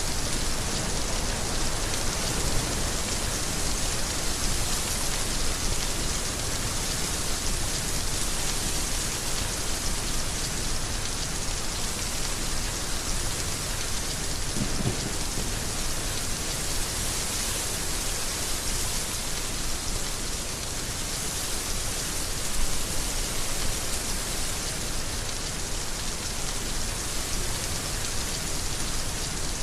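Heavy rain falling steadily, a dense even hiss of drops on surfaces. There is a brief low rumble about halfway through.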